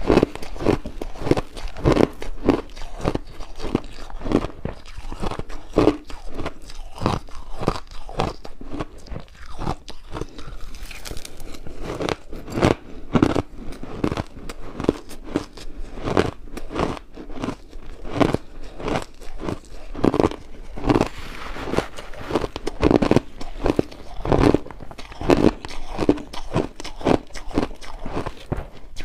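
Ice being bitten and chewed close to the microphone: sharp, irregular crunches, a few a second, with no pause.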